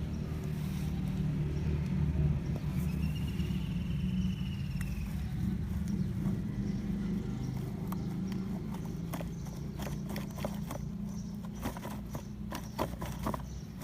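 Small electric motors of radio-controlled scale trucks and their winch whirring steadily while a stuck RC pickup is pulled free. A whining tone rises and falls briefly near the start, and a run of clicks and clatter comes in the last few seconds.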